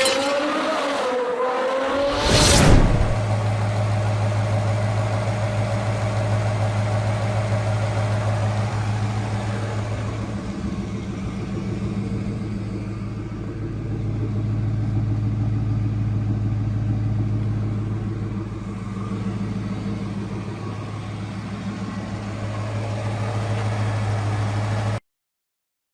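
Ford BOSS 5.0 Coyote V8 in a first-generation Mustang idling steadily with a deep, even hum that swells and eases slightly in level, cutting off suddenly near the end. A brief different sound with gliding pitch comes before it in the first few seconds.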